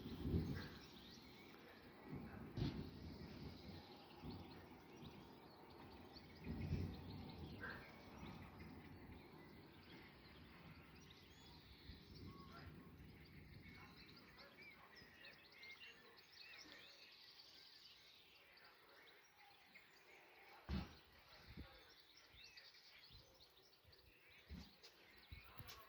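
Quiet outdoor ambience: small birds chirping faintly, with a few brief low thumps, the most prominent about seven seconds in and about twenty-one seconds in.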